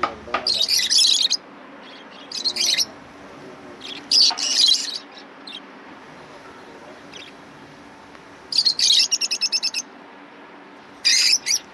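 Caged pet birds at a bird market chirping in about five short bursts of high, quick notes, one of them a fast run of repeated chirps, over a steady low hum.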